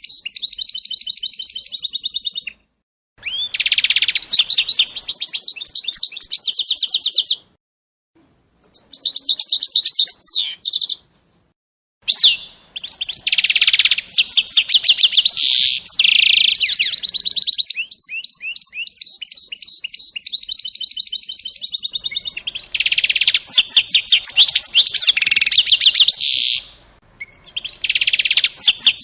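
A small songbird singing long phrases of rapid, high trills and chirps, broken by a few short silent pauses.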